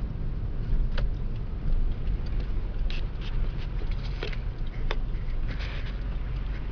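A car driving on a snowy road, heard from inside the cabin: a steady low road rumble with scattered sharp clicks and taps.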